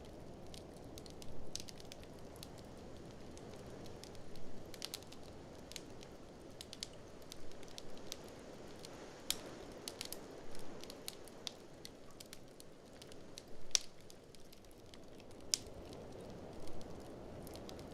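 Wood fire in a fireplace crackling, with irregular sharp pops several times a second, over a steady low rush of blizzard wind that swells now and then.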